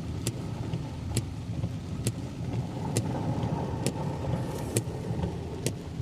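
Car driving through heavy rain on a flooded road, heard from inside the cabin: a steady low rumble of engine and wet tyres, with a sharp click about every second.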